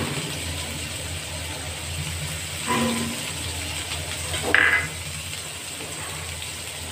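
Sliced onions frying in oil in a pan, a steady sizzle. Two short, louder sounds come through it about three and four and a half seconds in.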